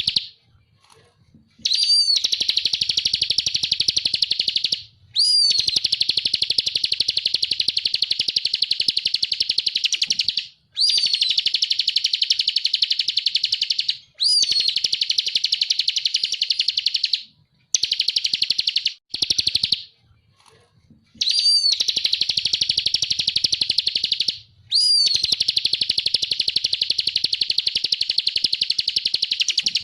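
Ciblek kristal (bar-winged prinia) singing loud, long, rapid high-pitched trills in repeated phrases, each opening with a quick sweeping note. There are short breaks between phrases, the longest near the start and about two-thirds of the way through.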